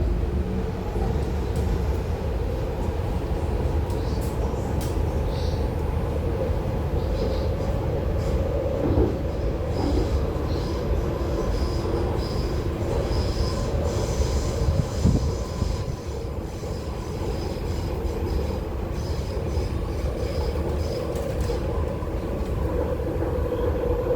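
MTR Tuen Ma line IKK-Train heard from inside the car while running between stations: a steady rumble of wheels on the track. Through the middle, a thin high-pitched squeal from the wheels rises above the rumble.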